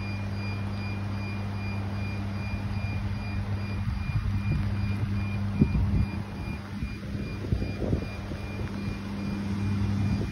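Heavy rain falling, over a steady low hum of an idling truck engine. A faint high beep repeats throughout, and a few low knocks come in the second half, the sharpest about halfway through.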